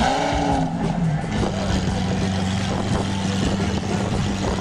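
A car engine idling, given a quick rev right at the start: the pitch jumps up and falls back to a steady idle within about a second.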